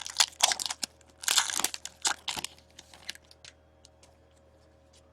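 A trading-card pack wrapper being torn open, crinkling and ripping for about two and a half seconds, followed by a few light ticks as it settles.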